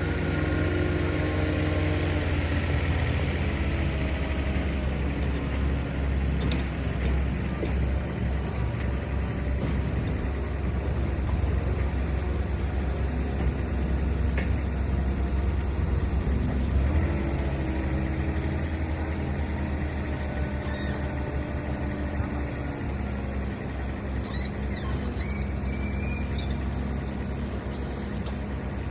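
Truck's diesel engine running with a steady low drone, its pitch shifting slightly as it goes.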